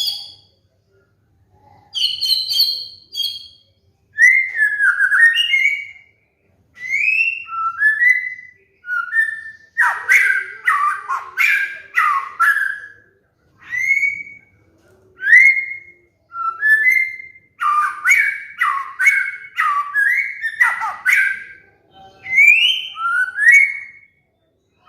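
White-rumped shama (murai batu) singing: loud whistled phrases of rising and falling notes mixed with rapid chattering trills, repeated in bursts of one to three seconds with short pauses between.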